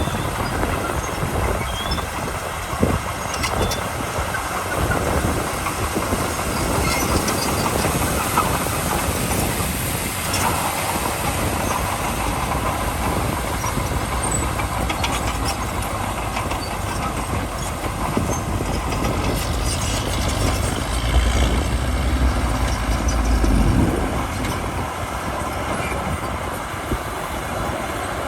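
Crawler bulldozer's diesel engine running under load while its steel tracks clank and rattle. The low rumble grows louder for a few seconds about two-thirds of the way in.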